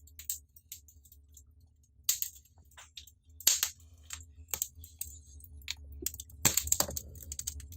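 Wood fire crackling in a brick fireplace: irregular sharp pops and snaps, a few louder ones about halfway through and near the end.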